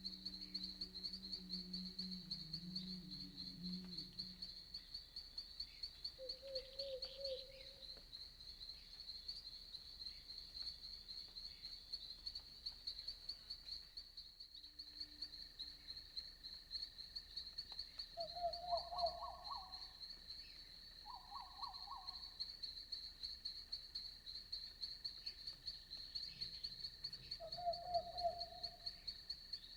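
Night forest ambience: night insects chirping in a steady, rapid high-pitched pulse, with a few short, lower animal calls now and then. There is a brief dropout about halfway through.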